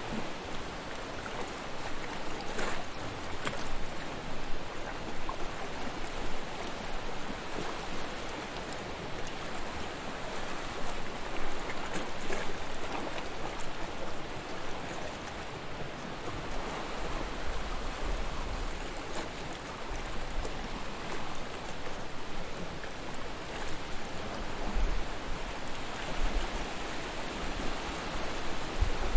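Sea waves washing onto a shore: a steady rush of surf that swells and eases. From about halfway through, short low rumbles come in several times.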